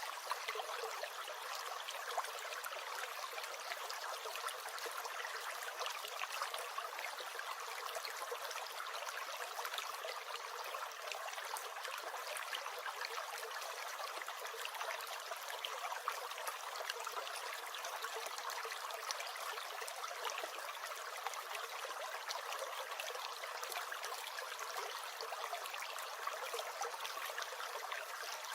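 Small stream gurgling and trickling, a steady, unbroken babble of running water.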